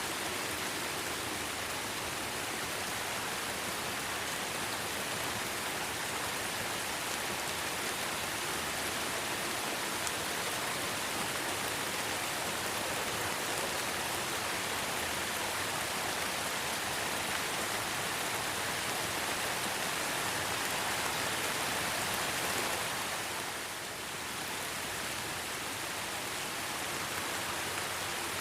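Steady rain falling: a dense, even hiss of many drops. It softens briefly about three-quarters of the way through, then comes back.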